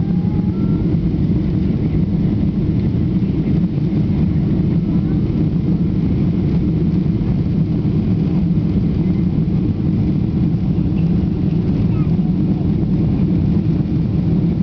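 Jet airliner during take-off: a loud, steady low rumble of engines and airflow that holds even throughout.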